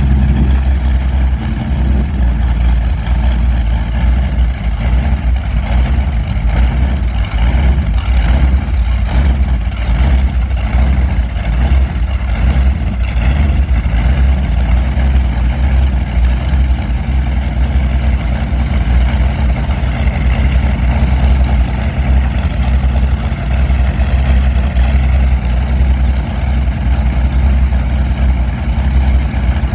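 Allison V-1710 liquid-cooled V-12 aero engine running loudly and steadily.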